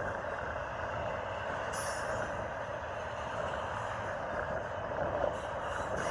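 Union Pacific intermodal freight cars rolling steadily past, with gusty wind on the microphone.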